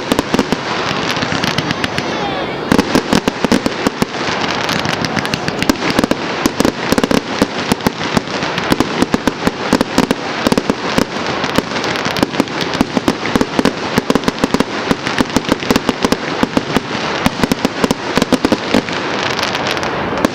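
Firework display: a dense, continuous barrage of bangs and crackles, many reports a second with no let-up.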